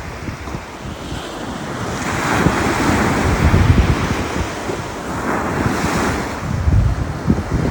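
Ocean surf washing onto the beach in swells, with wind buffeting the microphone.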